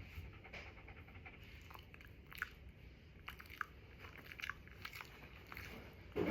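Shiba Inu making small mouth sounds while relaxed: soft chewing and licking clicks scattered irregularly, with one louder knock near the end.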